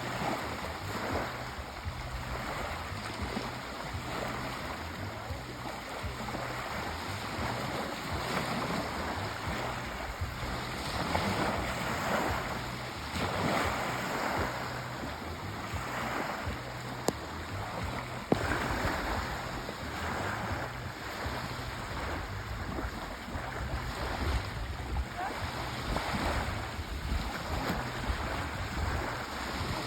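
Sea waves washing in, a steady surf noise that swells and eases every few seconds. Two brief sharp clicks come a little past halfway.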